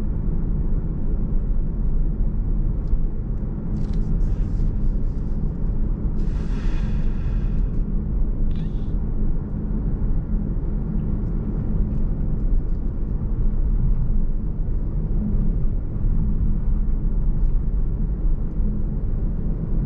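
Steady low rumble of a car's engine and tyres heard from inside the cabin while driving. A few short higher-pitched sounds stand out above it, the longest about six seconds in.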